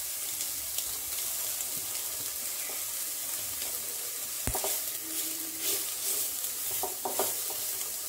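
Grated carrot, onion and chicken sizzling in oil in a pan. From about halfway, a spatula stirs and scrapes through the pan in short strokes.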